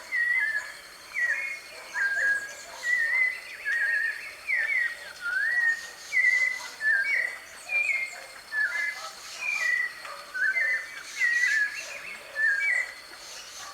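White-necked thrush (sabiá-de-coleira) singing: a steady run of short whistled phrases, about one a second, each note gliding up or down.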